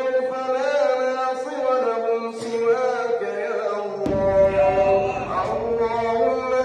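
A man's voice chanting a slow melody with long held notes, in the manner of a vocal chant. About four seconds in, a low rumbling noise joins underneath.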